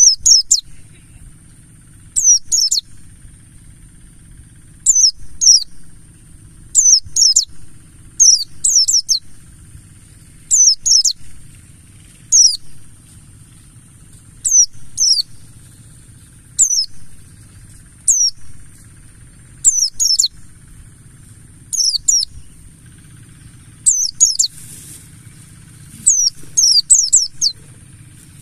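A pleci buxtoni white-eye calling: clusters of two to four short, high chirps that sweep downward, repeated about every two seconds.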